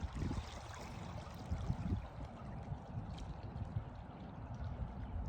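Small lake waves washing over a pebbly shore, with wind rumbling on the microphone.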